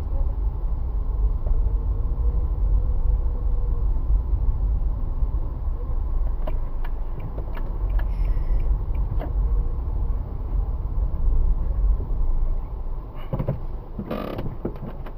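Steady low rumble of a car driving, as picked up inside the car, with a few faint clicks and a brief louder noise near the end.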